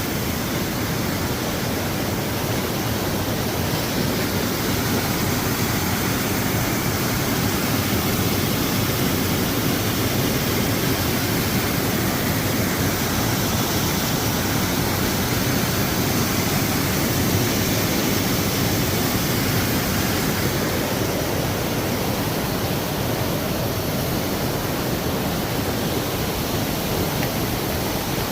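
Steady rush of a waterfall, an even roar of falling water that holds its level throughout.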